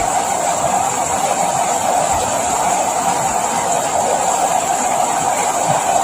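Steady rain, an even hiss with no breaks or separate drops standing out.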